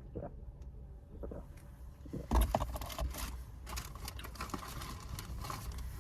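Packaging rustling and crinkling as it is handled, starting about two seconds in with a sharp crackle and going on irregularly.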